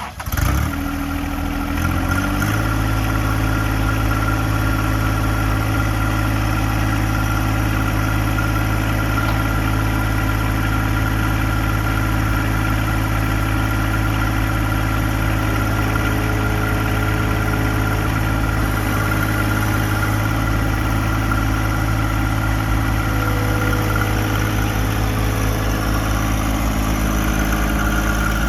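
John Deere 1025R compact tractor's three-cylinder diesel engine running, its speed rising over the first couple of seconds and then holding steady.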